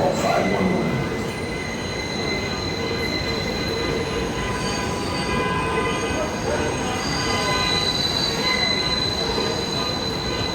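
New York City subway train running through the station with a steady rumble, its wheels giving a continuous high-pitched squeal over it.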